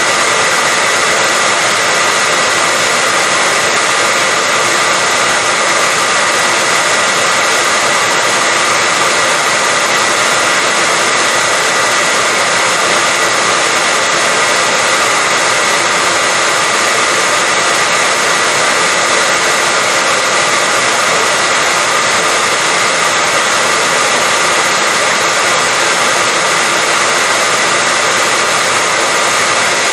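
Hair dryer running continuously at one speed: a steady rush of blown air with a thin, steady high whine over it, unchanging throughout.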